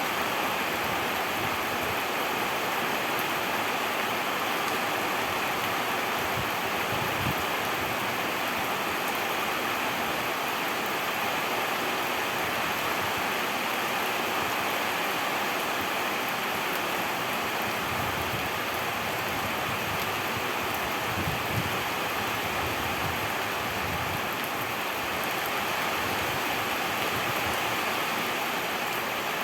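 Steady rainfall: an even, unbroken hiss of rain coming down.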